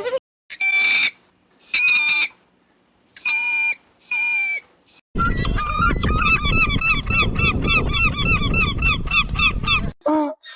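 Waterfowl honking: four separate honks. Then a fast run of short, repeated calls, about five a second, over a loud low rumble.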